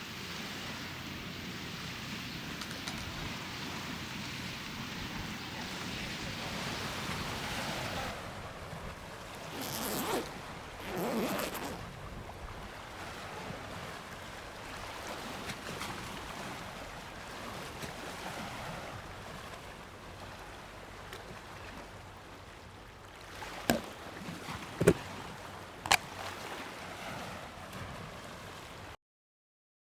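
Ocean surf washing on a beach as a steady rush of noise, swelling twice about ten seconds in. Three sharp clicks or knocks come a little past the two-thirds mark.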